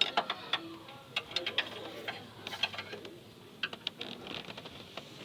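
Hand tools clicking and tapping against metal car parts during repair work: a string of light, irregularly spaced clicks.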